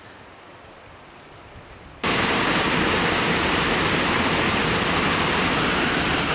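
Faint hiss, then about two seconds in a sudden switch to loud, steady rushing river water.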